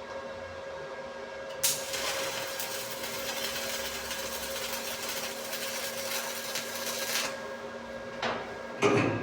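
Electric arc welding on a steel padlock: a crackling, hissing arc that strikes about one and a half seconds in and runs for about five and a half seconds before cutting off. A steady hum runs underneath, and a sharp metal knock comes near the end.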